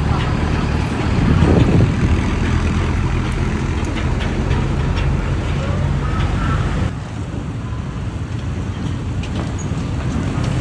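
Old heavy truck's engine running with a low, steady hum over road and traffic noise; the sound changes abruptly and gets a little quieter about seven seconds in.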